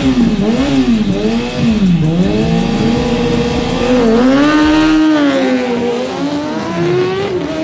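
Superbike engine on a race track, its pitch rising and falling again and again as the throttle is worked and gears are shifted, with a long climb in revs in the middle.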